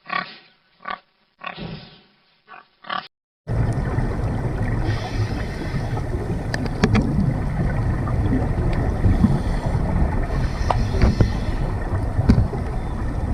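A pig grunting in short bursts with pauses between them. About three seconds in the sound cuts to a steady, heavy rushing noise with scattered sharp clicks.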